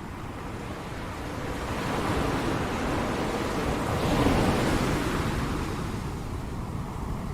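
Ocean surf: a wave breaking and washing in, swelling from about a second in, loudest around four seconds, then fading. Wind rumbles on the microphone underneath.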